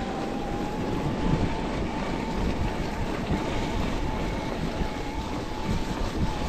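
Mountain bike riding: wind buffeting the microphone and the rumble and rattle of the bike over the trail, with a faint steady high whine.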